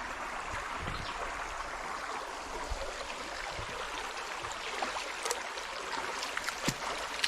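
Steady rush of a stream's water flowing over rocks, with a few faint clicks in the second half.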